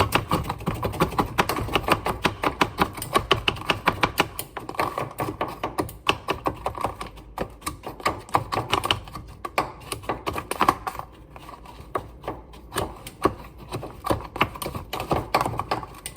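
Cake batter being stirred by hand in a bowl, the utensil clicking rapidly and unevenly against the bowl's side, easing off for a moment about two-thirds of the way through.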